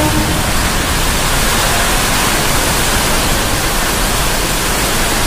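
Steady hiss of heavy rain in a storm at the station, with the tail of an EMU local train's horn cutting off right at the start.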